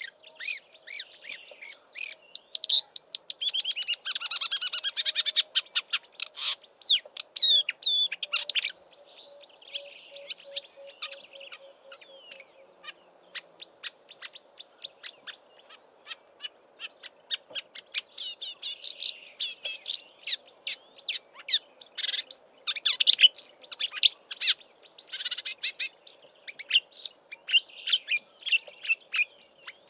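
Marsh warbler singing its fast, jumbled song of rapid chirps, trills and whistles, much of it mimicry of southern African birds' calls. The song comes in dense runs, thins out for a spell in the middle, then turns busy again for the second half.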